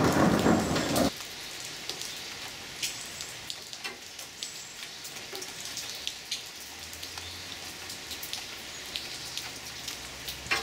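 The tail of a loud thunder rumble stops abruptly about a second in. It leaves heavy rain falling on leafy garden shrubs, with many close drops hitting the leaves as sharp little ticks.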